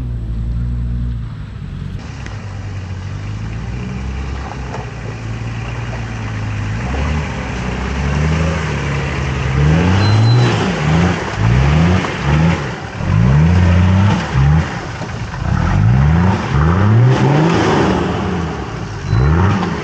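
Off-road 4x4's engine running under load, then from about eight seconds in revved again and again, its pitch climbing and dropping in quick repeated surges.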